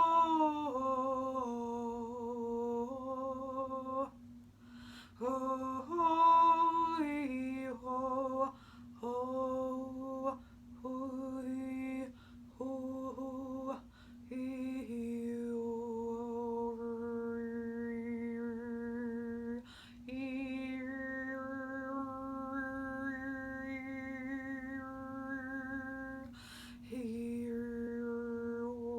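A woman's voice singing long, wordless held tones on a low note, pausing for breaths every few seconds. Through the middle of the passage she holds one drone for about ten seconds while whistle-like overtones move in steps above it, as in overtone singing.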